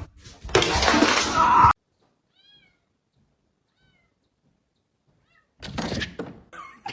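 A cat meowing in short calls. Loud noisy rushes come about half a second in and again near the end, with a quiet stretch between them.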